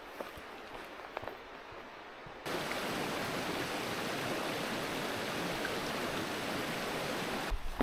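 Faint quiet with a few small ticks, then about two and a half seconds in a steady rush of flowing stream water starts suddenly and runs on evenly.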